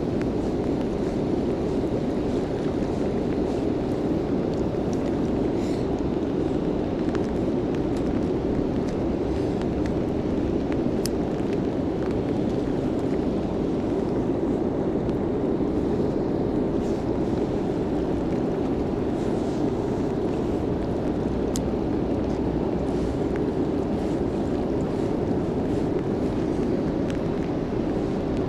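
Steady, even rush of water pouring through a river spillway.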